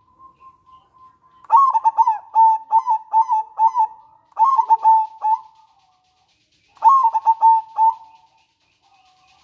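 Zebra dove (perkutut) cooing in three quick phrases of rapid, clipped notes, the first starting about one and a half seconds in and the last ending about a second before the end.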